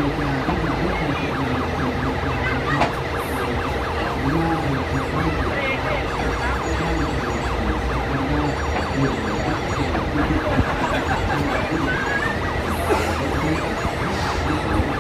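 Sound units of 1:14-scale RC trucks playing engine and siren sounds over one another, a steady mix with wavering, wailing tones.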